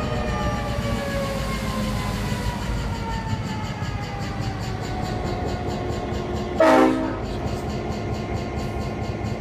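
Diesel locomotive and passenger cars passing: the engine running with a steady low rumble and the wheels clicking over the rail in a fast even rhythm. A high tone slides slowly down in pitch through the first half, and one short, loud horn blast sounds about two-thirds of the way through.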